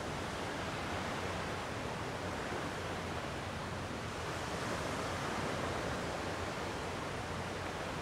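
Gentle sea waves washing on a rocky shore, a steady surf rush that swells softly now and then.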